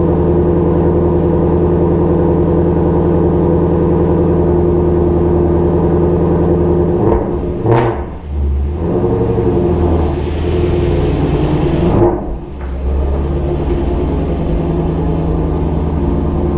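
2016 Shelby GT350's 5.2-litre flat-plane-crank V8 idling on a cold start, with a steady, even note. The note breaks up briefly twice, about seven and twelve seconds in.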